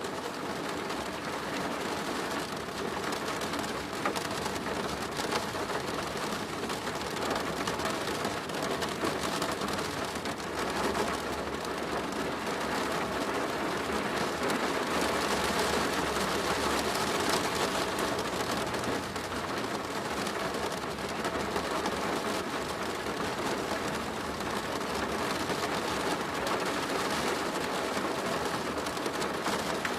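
Steady rain drumming on a plastic roof, a dense patter with occasional individual drop ticks and a faint low rumble underneath.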